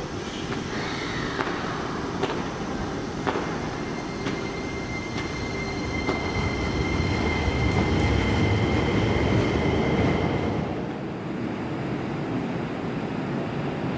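Keisei Main Line electric train running through the station: rumbling wheel and rail noise that builds, is loudest about two-thirds of the way through, then drops off sharply. A steady high-pitched tone runs through the middle, and a few sharp clicks come early on.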